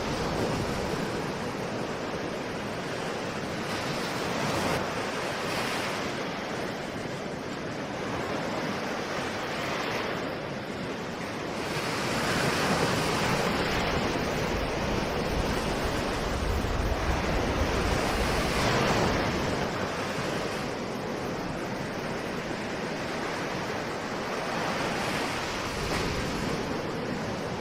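Ocean surf: waves breaking and washing in, rising and falling in slow swells every few seconds, loudest in the middle stretch.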